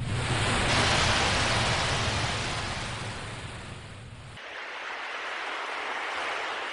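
Sea waves breaking and washing back: one wave surges about a second in and slowly recedes, with a deep rumble underneath that cuts off suddenly after about four seconds, then a smaller wave swells in near the end.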